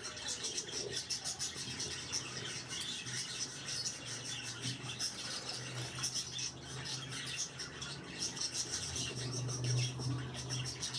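Budgerigars chattering: a steady stream of quick, high chirps and clicks. A low steady hum runs underneath.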